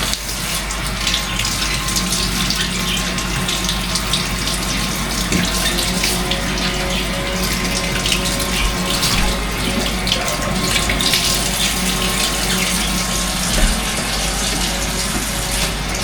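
Kitchen tap running steadily into the sink while salted codfish is rinsed under it to wash off the salt, the water splashing over the fish. A faint steady hum sits beneath the water.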